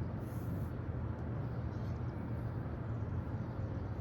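Steady low rumble of outdoor city background noise, with distant traffic.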